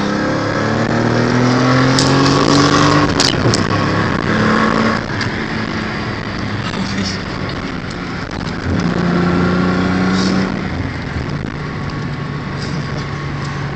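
Car engine revving hard in first gear as the tires spin after a clutch pop, its pitch rising for about three seconds, then dropping back and running on more steadily as the car drives away.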